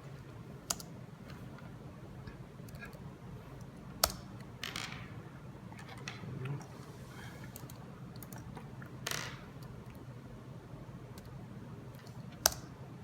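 Laptop keys clicking sporadically, with a few sharp, louder clicks and a couple of brief rustles over a low steady hum, as the laptop is set up to connect to the drone.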